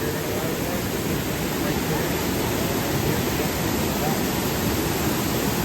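Steady rush of a waterfall pouring into a river pool, an even, loud hiss of falling water.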